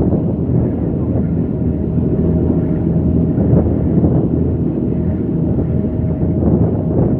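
Large engine running steadily: a low rumble with a constant hum above it.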